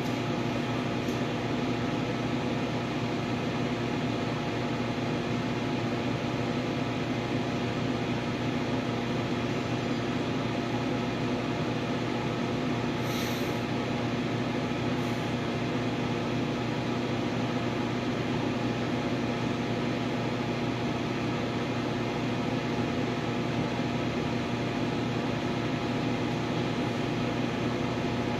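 Steady, unchanging motor hum in a machine shop, with a short high hiss about 13 seconds in.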